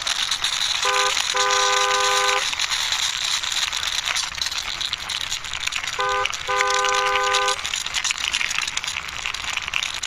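Toy truck pushed by hand, its wheels rolling with a steady hiss, while a car-horn sound honks a short beep and then a longer one, twice.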